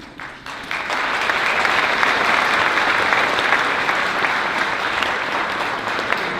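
Large audience clapping, swelling within the first second and then holding steady.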